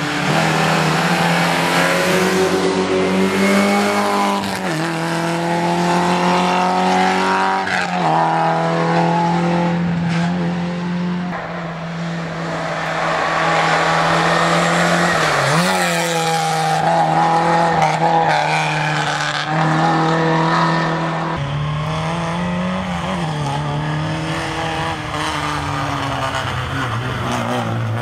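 Rally Lada 2107's engine being driven hard, the revs climbing and dropping back again and again as the driver changes gear, with tyre noise throughout. Toward the end the revs settle lower and steadier.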